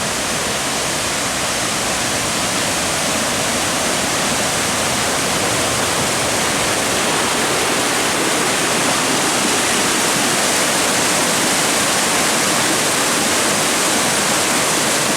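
Hillside stream swollen by heavy rain, its water rushing loudly and steadily, far more turbulent than its usual trickle.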